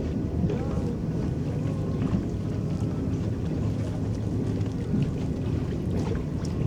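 Small electric boat under way: a steady low churn of water from its paddles and hull.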